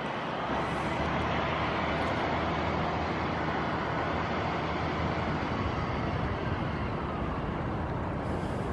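Steady road traffic noise, a continuous hum of passing cars that swells a little during the first half.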